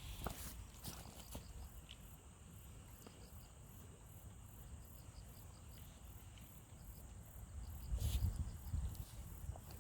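Insects chirping in a steady, even rhythm, like crickets. A few light knocks come near the start, and a low rumble about eight seconds in is the loudest part.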